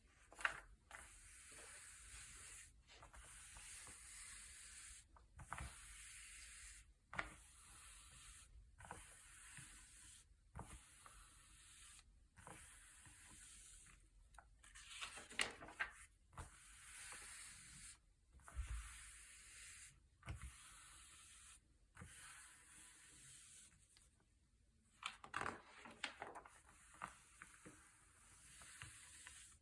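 Thick, glossy paper pages being turned one after another: short crisp rustles and flicks every couple of seconds over a faint hiss, with a louder bout of crinkling about halfway and again near the end.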